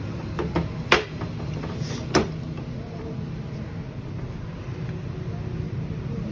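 A few sharp metal clicks and knocks of tools and parts being handled on a Honda 125 engine, the loudest about a second in and another a second later, over a steady low hum.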